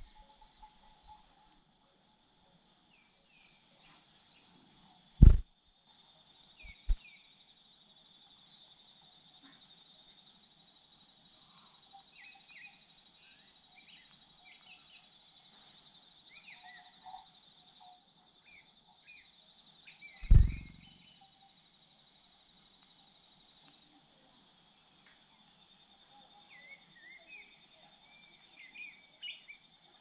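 Outdoor ambience of scattered short, high bird chirps over a steady high-pitched buzz, broken by two loud dull thumps about five seconds in and about twenty seconds in.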